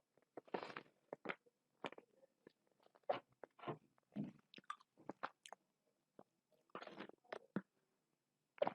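Close-up chewing and biting sounds of someone eating: irregular wet smacks and small clicks with a short pause partway through.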